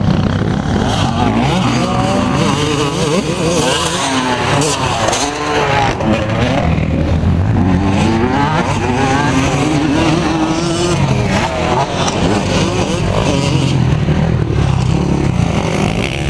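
Several motocross motorcycle engines revving up and down continuously, their pitch rising and falling as the bikes race.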